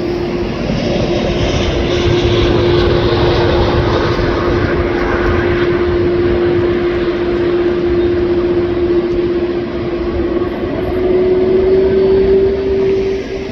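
Airbus A330 airliner's jet engines running loud: a steady roar with a droning tone that rises slightly in pitch near the end.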